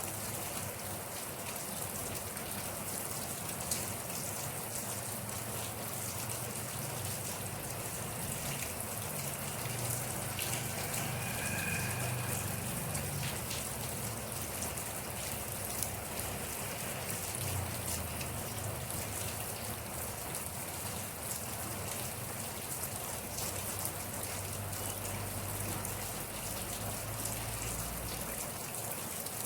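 Steady rain falling, with many separate drops pattering through it. A low rumble swells under the rain around the middle and again in the second half.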